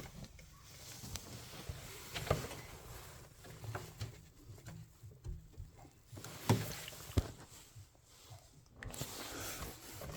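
Scattered clicks and knocks of hand work on a boiler's clogged condensate trap as it is cleaned out and refitted.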